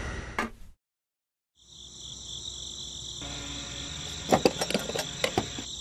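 Steady cricket chirring, with a cluster of sharp plastic clicks and taps about two thirds in as a toy fuel nozzle is handled and pushed into its holder on a miniature fuel pump.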